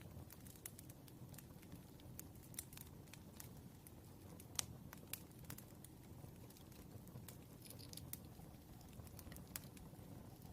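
Wood fire crackling: scattered sharp pops and snaps over a low, steady rumble, the loudest pop about halfway through.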